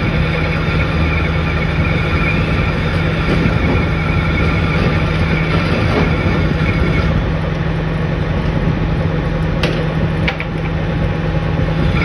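Metal-turning lathe running with a steady machine hum and a higher cutting tone that fades out about seven seconds in, followed by two sharp clicks near the end.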